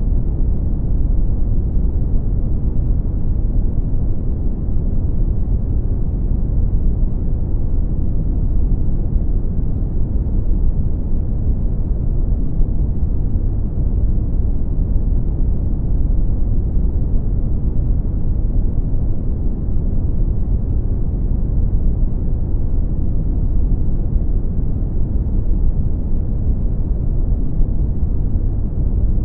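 Brown noise: a steady, deep rumbling hiss with most of its weight in the lows, unchanging throughout.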